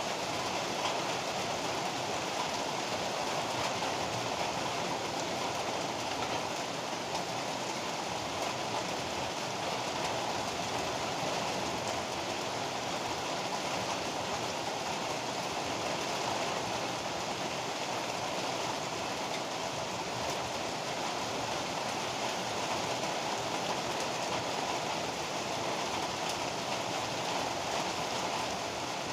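Heavy rain falling steadily, an even rushing hiss with no thunderclaps.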